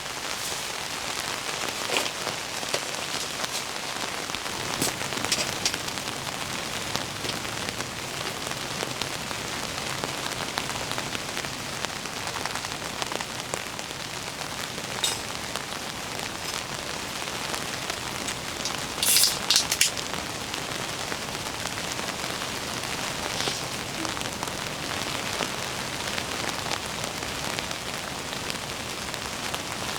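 Heavy rain falling in a steady, dense hiss, with scattered sharp drops striking close by and a brief cluster of louder taps a little after the middle.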